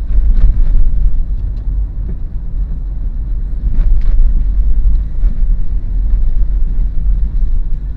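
Road rumble of a Daihatsu Terios on the move: a steady, heavy low drone, with a few faint ticks or knocks now and then.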